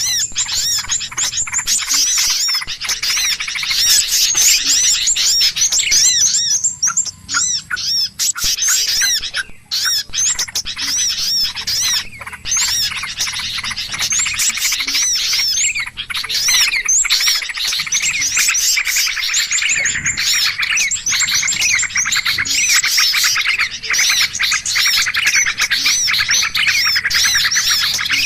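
A bird-lure recording of many small birds chirping and squawking at once in a dense, unbroken, agitated chatter of fast high-pitched notes.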